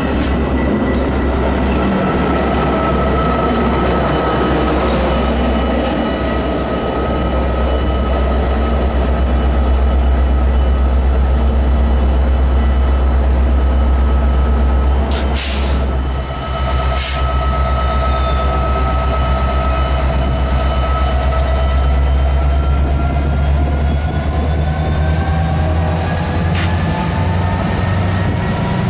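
A train rolling past close by with a heavy low rumble, its wheels squealing in steady high-pitched tones that rise in pitch near the end. Two sharp clicks sound about halfway through.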